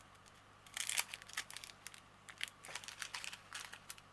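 Small plastic bags of diamond-painting drills crinkling in the hands as they are picked up and sorted: a string of short crinkles and clicks starting about a second in.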